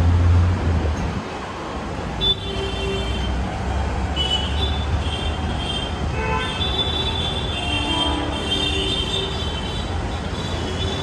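Tail end of a passenger train of LHB coaches rolling past on the track, a low rumble that drops off after about a second as the last coach goes by and then carries on steadily as the train moves away. High-pitched wheel squeals come and go, and a single sharp knock sounds a little over two seconds in.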